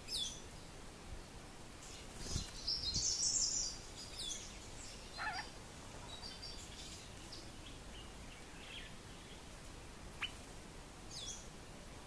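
Small birds calling: several short, high calls that slur downward, and a louder burst of high chattering about two to three seconds in, with two low thumps beneath it.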